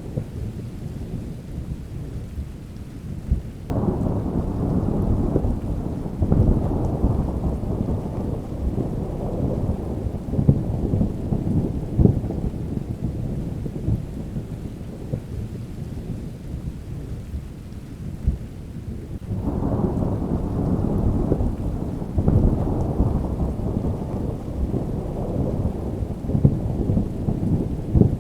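Thunderstorm: rain falling with low, rolling thunder. Two long peals of thunder break in, one about four seconds in and one about two-thirds of the way through, each rumbling on for several seconds.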